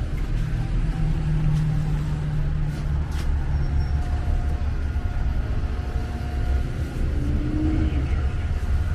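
Road traffic on a city street: cars running past as a steady low rumble, with a few faint clicks.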